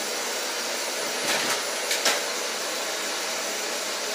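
Vacuum cleaner running steadily, with a few brief knocks about one and a half and two seconds in.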